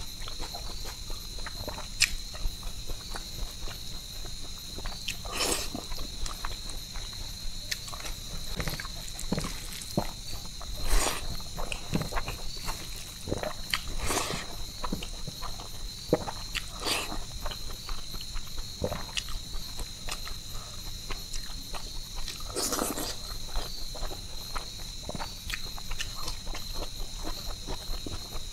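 A person eating rice and fish curry by hand close to the microphone: chewing and wet mouth sounds with scattered sharp clicks, the loudest about two seconds in and near the middle. Under it, a steady high-pitched insect drone.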